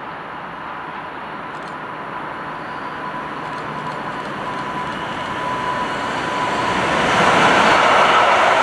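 A train approaching, its running noise building steadily and growing loud about seven seconds in, with a thin steady high tone over it.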